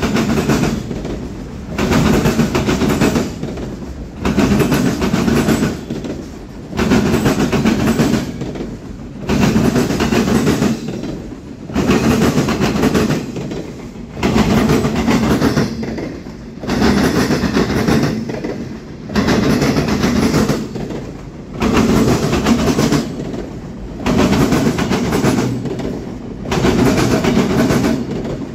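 Freight train cars rolling past on the rails, a loud clattering rumble that swells and eases in a steady rhythm about once every two seconds.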